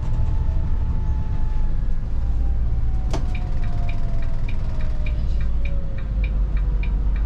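Volvo 8900 bus heard from on board: a steady low rumble of engine and road with a faint whine slowly falling in pitch. About three seconds in there is a click, then the turn-signal indicator ticking steadily, about four ticks a second, until near the end.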